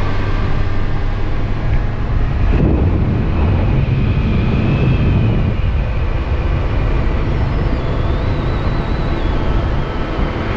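Kawasaki Versys motorcycle riding steadily at road speed: a loud, steady mix of engine and wind noise, starting abruptly.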